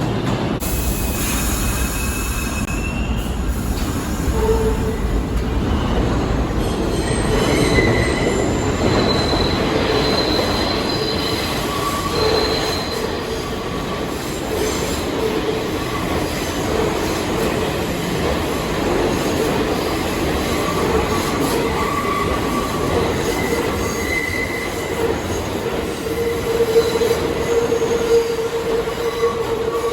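New York subway train running, a steady rumble with wheels squealing in high, wavering tones on and off; the squeal is loudest near the end.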